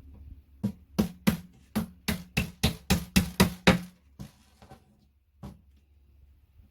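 A quick run of about a dozen sharp knocks, roughly three a second, then three slower ones: tapping on the flat-pack bedside table as it is assembled.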